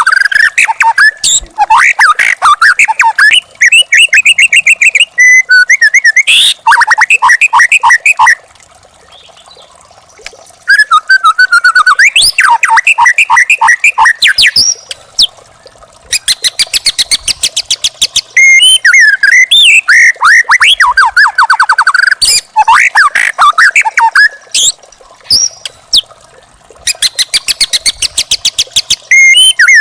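Young wild white-rumped shama (murai batu) singing loudly in varied whistled phrases with gliding notes, broken by bursts of very fast repeated notes. There is a pause of about two seconds around a third of the way in.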